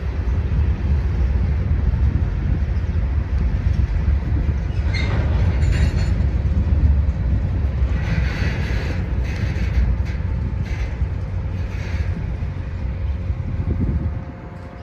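Train rolling past with a steady low rumble of wheels on rail. Brief higher-pitched bursts come about five seconds in and again about once a second from eight to twelve seconds in, and the rumble fades near the end.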